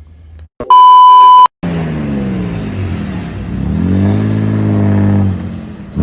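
A loud, steady one-second beep, then a car engine running, its pitch falling and then climbing as it revs, holding briefly before dropping away near the end.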